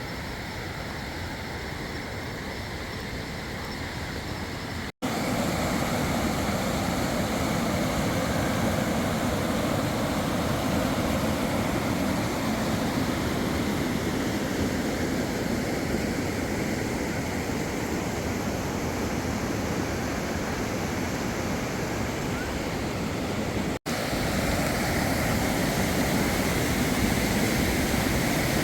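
Steady rush of flowing water. It breaks off twice in brief cuts, about five seconds in and near the end, and is louder and fuller after the first cut.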